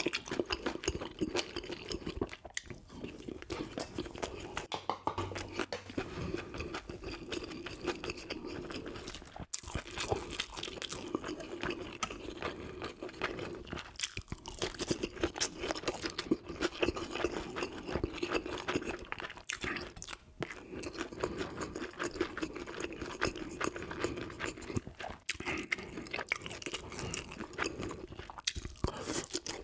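Close-miked chewing with frequent crunching: mouthfuls of rice and grilled dried yellow croaker (gulbi) eaten bones and all. The sound drops out briefly a few times.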